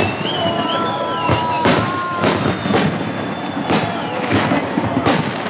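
Fireworks display shells bursting in quick succession, about eight sharp bangs echoing over the few seconds.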